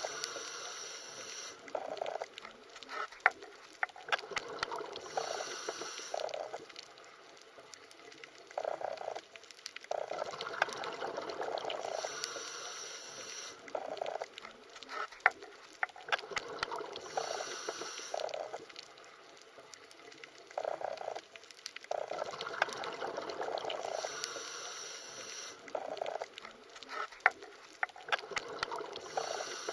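Muffled underwater water sounds: slow swells that rise and fall every few seconds, with short spells of bubbling and scattered small clicks.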